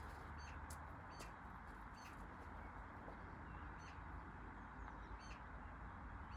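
Faint small-bird chirps, short calls every second or so, over a steady low background hiss.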